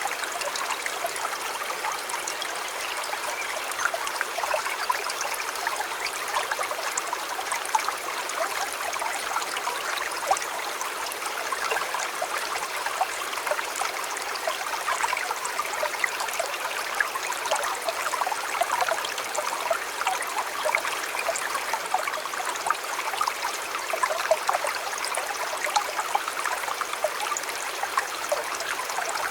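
River water flowing and babbling steadily over stones, a constant splashing with many small bubbling ticks.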